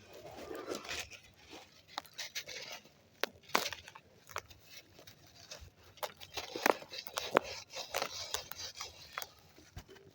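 Dry, compacted white sand crumbling and crunching, with irregular sharp crackles over a grainy scraping hiss.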